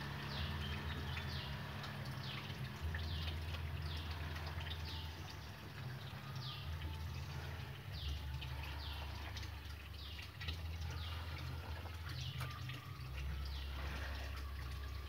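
A small bird chirping repeatedly, short high downward-sliding notes about twice a second, over a low steady rumble.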